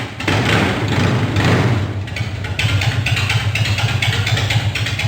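Triumph Thruxton 900's parallel-twin engine running just after starting, through custom exhaust pipes, with louder swells in the first couple of seconds.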